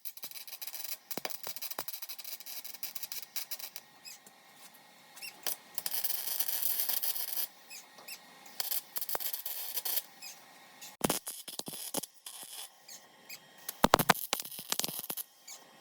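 MIG welder sputtering and crackling in short stop-start runs as patch metal is welded into rust holes on a car's underside, with a few sharp clicks and taps between runs.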